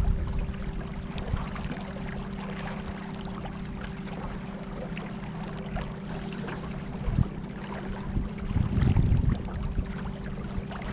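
Boat motor running at a steady speed under way, a constant drone, over rushing water and low rumbling noise.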